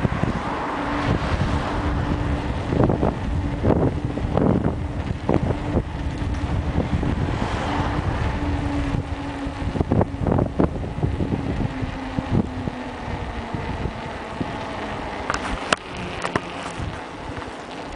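Wind buffeting the microphone of a camera riding on a moving mountain bike, over a steady rumble with frequent rattles and knocks from the bike on rough ground. A steady hum runs through most of it and fades out about two-thirds of the way in, and a few sharp clicks come near the end.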